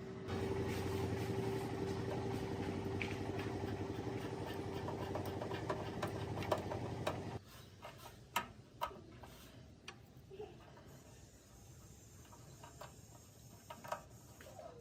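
A small motor running with a steady hum that cuts off abruptly about halfway through, followed by scattered light clicks and taps.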